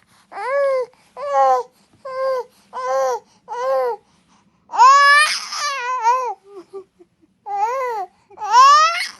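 A four-month-old pet bird screaming in a run of about eight loud, arching calls, with a longer, harsher call about five seconds in.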